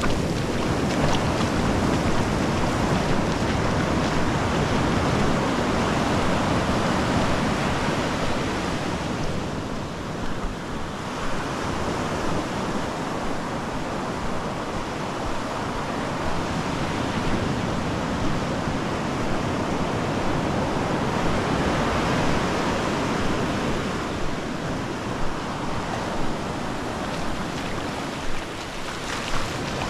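Ocean surf breaking and washing on a beach: a continuous rush of waves that eases about ten seconds in and then builds again.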